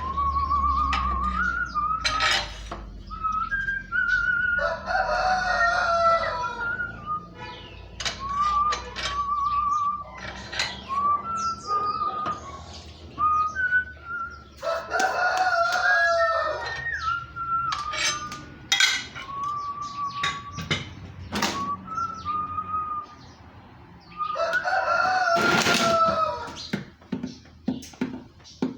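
A rooster crowing three times, about ten seconds apart, with shorter bird calls in between.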